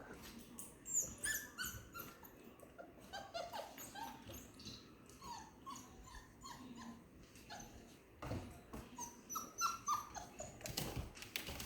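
Portuguese Water Dog puppies whimpering and yipping, many short high cries one after another, with a couple of sharp knocks about eight and eleven seconds in.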